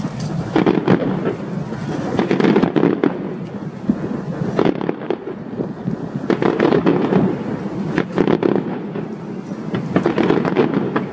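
Fireworks display: a rapid, continuous barrage of shell bursts and crackling, with many sharp cracks over a rolling rumble, swelling in dense clusters.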